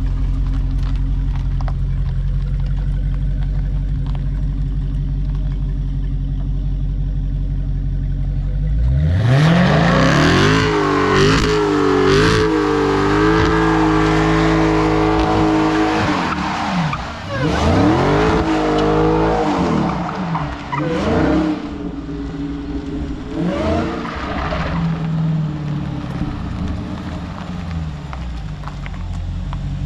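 Supercharged 6.2-litre Hemi V8 of a Dodge SRT Hellcat Redeye idling, then about nine seconds in revving hard with the rear tires spinning and squealing, the revs swinging up and down for about twelve seconds. After a few more blips it settles back to idle near the end.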